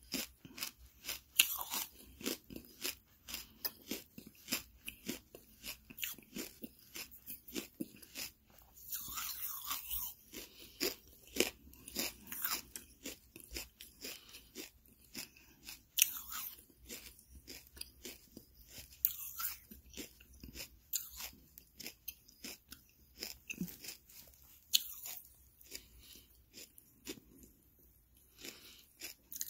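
Charcoal being chewed and crunched in a mouth held close to the microphone: a continual run of sharp, crackly crunches, a few a second, growing sparser near the end.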